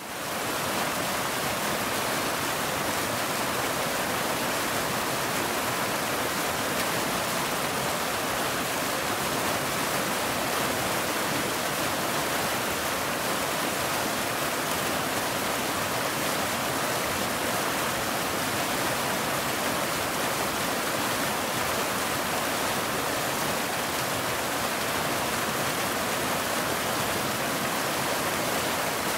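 Waterfall: a steady, even rush of falling water that fades in quickly from silence at the start and then holds level.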